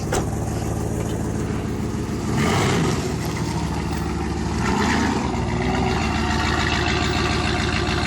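Straight-piped Jeep Grand Cherokee ZJ 5.2-litre V8 exhaust idling with a steady, lumpy note, blipped twice with short revs that rise and fall, about two and a half seconds in and again about five seconds in.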